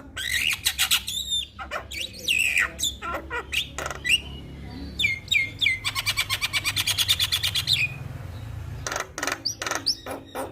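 Javan myna singing a varied, chattering song of sharp squawky notes and whistled slides, with a fast rattling trill of about two seconds in the middle.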